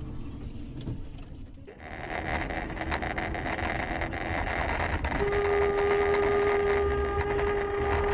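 Steady road and engine noise of a car driving, with a car horn held in one steady blast for about three seconds from about five seconds in.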